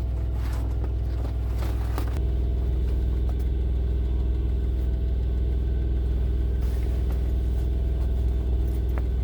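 Semi-truck diesel engine idling steadily while warming up after a cold start, with its air pressure still building.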